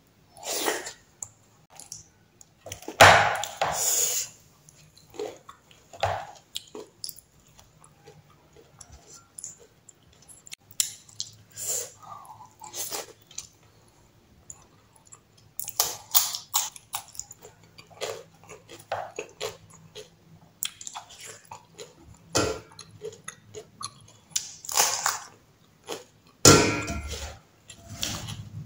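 A person chewing a mouthful of rice and curry: irregular wet mouth sounds, loudest a few seconds in and again near the end.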